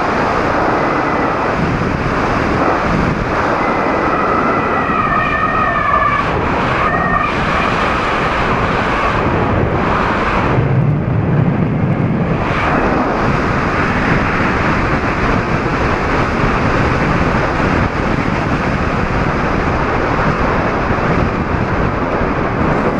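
Loud, steady rush of wind on the microphone in flight, with a brief wavering whistle-like tone about four to seven seconds in.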